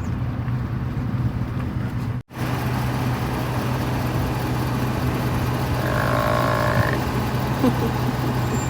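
Vehicle engine idling with a steady low hum. The sound cuts out for an instant about two seconds in. About six seconds in comes a single held call of about a second, one clear pitch with a slight waver.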